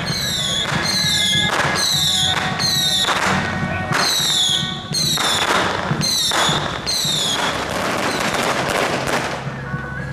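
Whistling fireworks going off in quick succession, about nine high whistles each falling in pitch, with crackling bursts between them. A steady low hum of music runs underneath.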